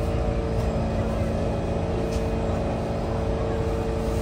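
Steady hum of a Kawasaki C151 metro train's on-board equipment while it stands at a station platform, with no wheel or traction noise. A couple of low tones are held unchanged throughout.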